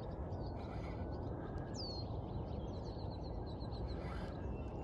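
A bird calling: one high whistle sweeping downward, then a quick run of about eight short, high chirps. A steady low rumble of background noise runs under it.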